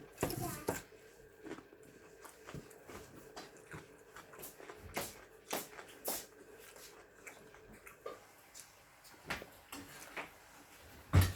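Eating sounds: chewing and crunching with scattered small clicks and crackles, and one louder low thump near the end.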